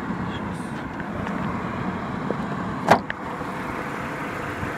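Audi 1.8T (AWT) four-cylinder turbo petrol engine idling, with a ringing ticking and crackling from under the valve cover. The owner takes it for the timing chain or its tensioner; others have called it the valves or hydraulic lifters. A single sharp click about three seconds in.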